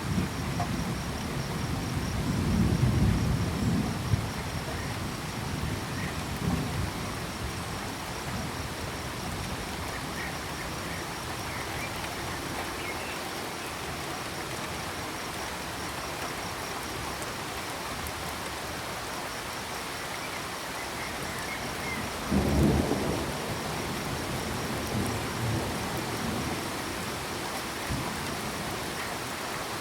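Steady rain falling, with low rolls of thunder in the first few seconds and again about two-thirds of the way through. A faint, steady, high cricket trill runs under the rain.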